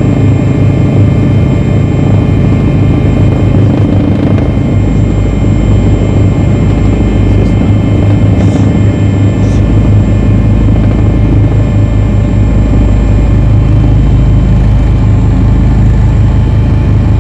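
Firefighting helicopter running steadily, its rotor giving a fast, even chop over a low engine hum.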